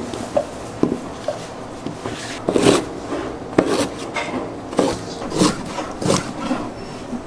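Kitchen work sounds: irregular short knocks and scrapes of tools and trays being handled, roughly one a second.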